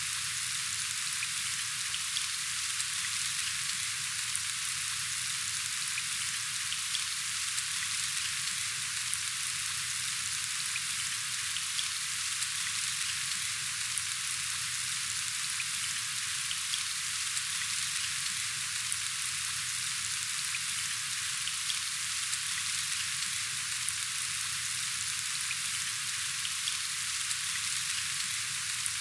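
Steady rain falling: an even, continuous hiss with faint scattered ticks of individual drops.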